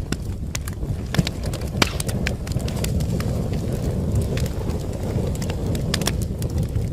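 Wood fire in a fireplace crackling, with irregular sharp pops and snaps over a steady low rumble of burning; one of the louder pops comes about two seconds in.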